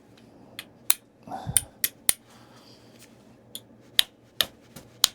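Flintknapping: a bopper striking and tapping the edge of a piece of Tallahatta quartzite, about a dozen sharp, irregularly spaced clicks, some with a short high ring. The blows are light.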